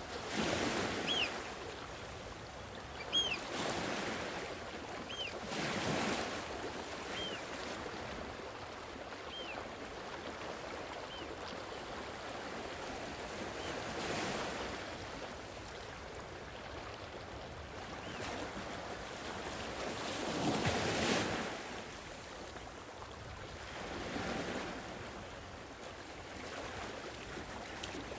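Sea waves washing onto a shore in slow, noisy surges every few seconds, the biggest about twenty seconds in. Short high chirps sound about every two seconds over the first dozen seconds, growing fainter.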